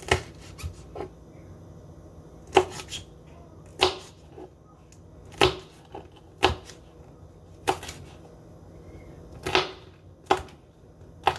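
Kitchen knife slicing green chilies on a cutting board: sharp single knocks of the blade on the board, about a dozen, spaced irregularly roughly a second apart, as the chilies are cut thin one slice at a time.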